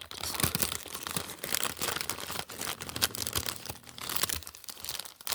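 Packaging being crinkled and torn open by hand: a continuous run of crackling and rustling made of many quick sharp crackles.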